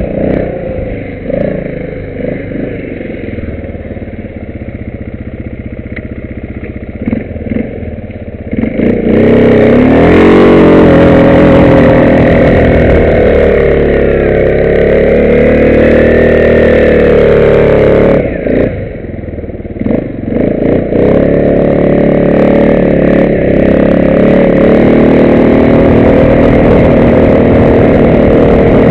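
Arctic Cat 500 4x4 ATV engine running, fairly quiet at first. About a third of the way in it turns loud under throttle, its pitch rising and falling with the revs. It eases off briefly past the middle, then pulls steadily again.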